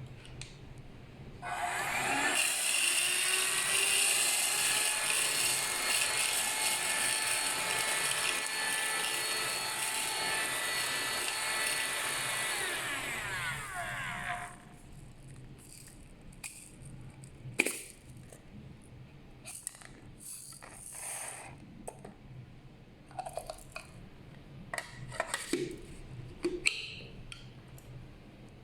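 HK6030 mini handheld vacuum cleaner motor starting about a second and a half in, whining up to speed and running steadily, then winding down and stopping about halfway through. Scattered clicks and handling knocks follow.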